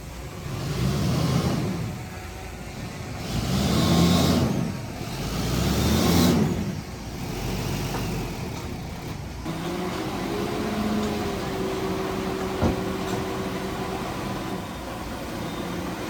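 Diesel engine of heavy earthmoving machinery revving up and falling back three times, then running steadily at a lower pitch. A single sharp knock about three-quarters of the way through.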